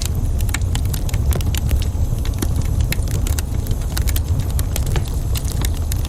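Wood fire crackling in a fireplace: many quick, irregular pops and snaps over a steady low rumble.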